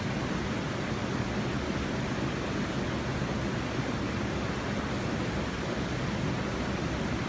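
Steady rush of river water flowing over a small weir, an even, unbroken noise.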